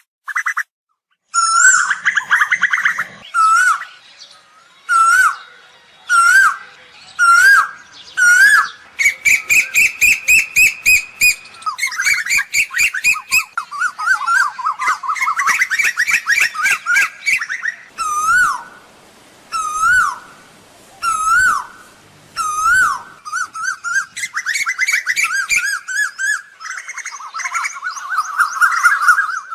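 Asian koel calling. Single rising notes repeat about once a second, alternating with several fast bubbling runs of higher, quickly repeated notes.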